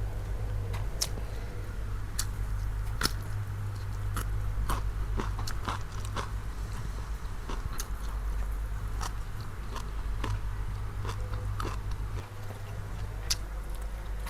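A person chewing and biting food close to the microphone: irregular crisp crunches and mouth clicks, with a steady low hum underneath.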